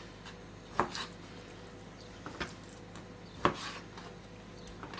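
A kitchen knife cutting raw chicken breast into chunks, knocking on the cutting board: two sharp knocks, about a second in and past three seconds, with a few fainter taps between.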